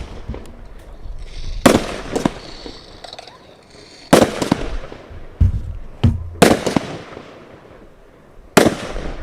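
Consumer firework cakes firing: a string of sharp bangs at uneven intervals, roughly a second apart, as shells burst overhead, with a brief high crackle between bangs about three seconds in.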